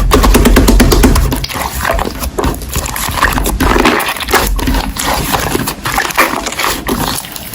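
Slime being squished and poked by hand: wet, sticky crackling and popping clicks, with a heavy low squelch in the first second and a half.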